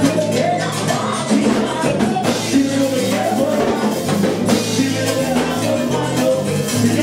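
Salsa orchestra playing, with a steady bass line, drums and singing.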